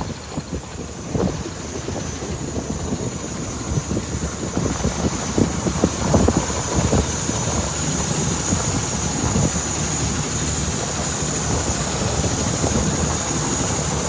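Storm wind gusting and buffeting the microphone in uneven low rumbles and thumps.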